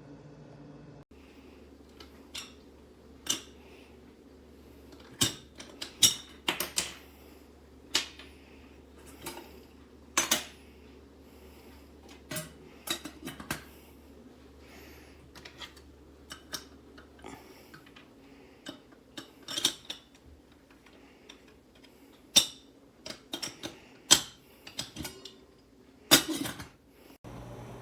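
Irregular sharp metallic clinks and clacks, one every second or two and sometimes several in quick succession, over a low steady hum.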